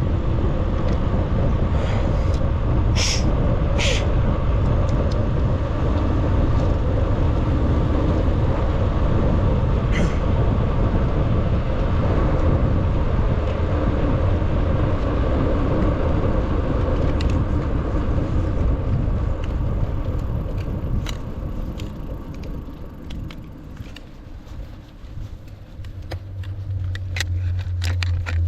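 Wind rushing and buffeting over the microphone of a mountain bike descending at speed, easing for a few seconds near the end before picking up again.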